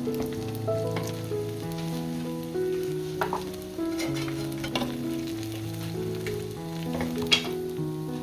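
Shredded-potato hash brown frying in oil on a cast-iron griddle pan, sizzling and crackling, with a few sharp scrapes of a wooden spatula against the pan, the sharpest near the end. Background music with held, stepping notes runs underneath.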